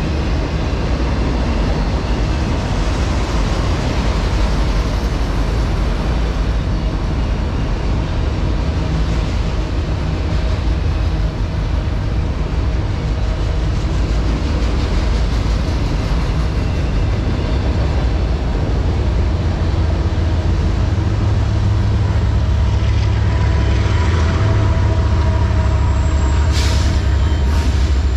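Freight train of autorack cars rolling past with a steady rumble and clatter of steel wheels on rail. About three quarters of the way through, the low diesel drone of the rear distributed-power locomotives builds as they pass, including BNSF SD70ACe 8498. Two brief hissing bursts come near the end.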